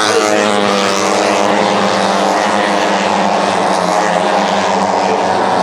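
Racing motorcycle engine running hard at high revs, one steady loud engine note whose pitch drifts slowly downward.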